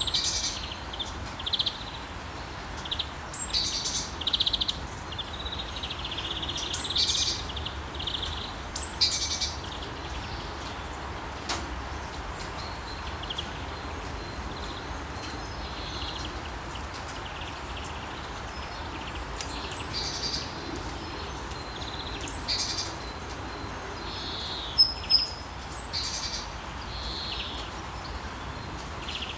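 Rainforest ambience: a steady hiss of rain with birds calling on and off over it, short high chirps and whistles, a few sharper and louder ones near the end.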